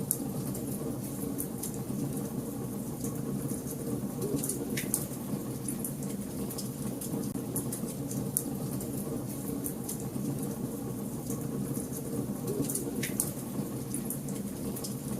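Wood fire burning in a fireplace: a steady low roar of flames with frequent small crackles and a few louder pops.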